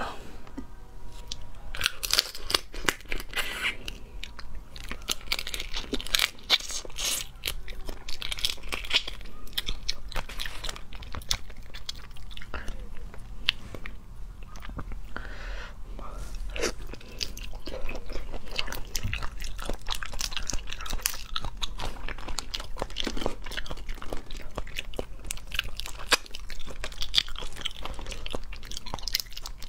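Close-miked chewing of raw botan shrimp: wet smacks, mouth clicks and crunches, one after another with only brief pauses.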